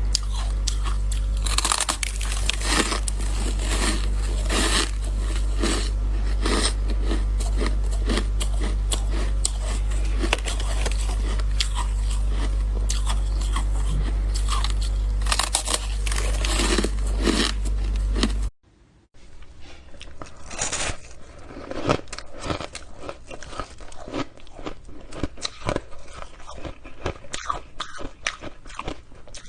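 Close-up crunching and chewing of shaved ice, with hard, dense bites over a steady low hum. About 18 seconds in, the sound cuts to a moment of near silence, then the crunching and chewing carry on quieter.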